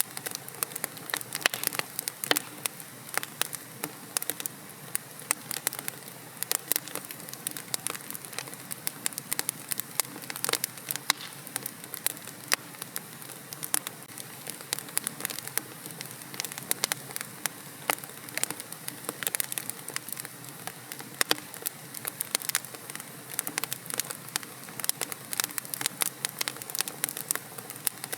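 Wood fire crackling in a fireplace: a steady soft hiss studded with many sharp, irregular pops and snaps.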